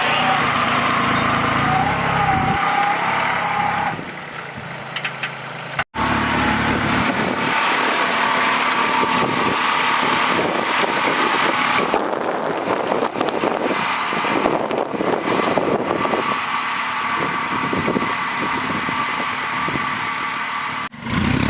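Kubota A211N compact tractor's diesel engine running steadily, with abrupt drops in level and a brief dropout about six seconds in.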